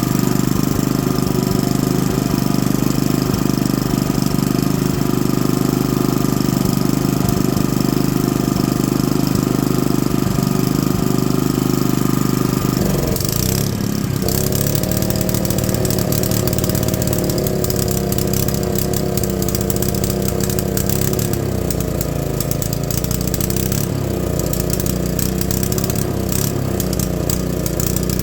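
Honda GX110 single-cylinder four-stroke engine running steadily, then about halfway through its speed drops to a lower note that wavers slightly.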